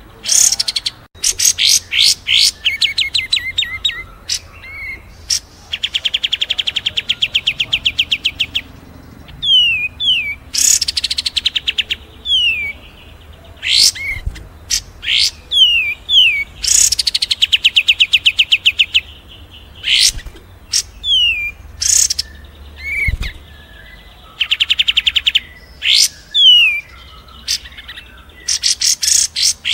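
Songbird mastering track mixing the calls of a kapas tembak, a cililin and fighting sparrows: repeated sharp falling chirps, fast trills lasting a couple of seconds, and high sweeping notes, coming in quick bursts with short gaps.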